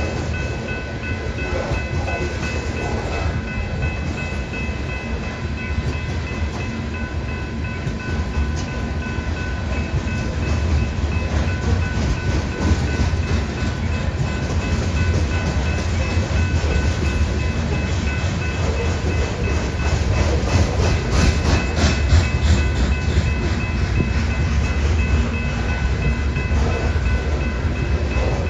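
Long BNSF grain train of loaded hopper cars rolling past: a steady rumble of steel wheels on rail, with clattering clicks over rail joints. It grows a little louder in the second half.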